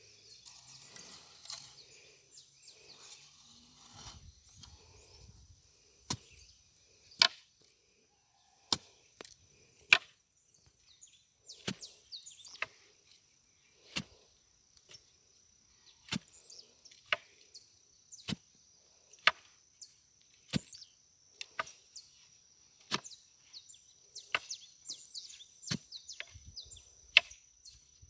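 A digging tool striking hard ground again and again, with sharp single blows about once every second or so, some much louder than others. A steady high buzz and a few bird chirps go on behind.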